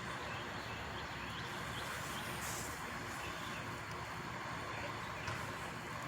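Truck engine running steadily under a constant wash of outdoor noise.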